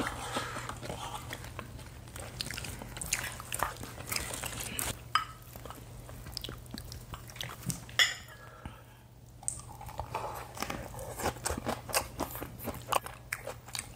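Close-miked chewing and crunching of lettuce wraps and spicy stir-fried pork, with scattered small clicks of spoons and chopsticks on bowls, the sharpest about eight seconds in.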